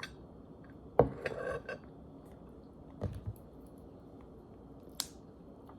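Cutlery knocking and clinking against a stoneware dish while eating: a knock about a second in with some scraping after it, another about three seconds in, and a sharp click near the end.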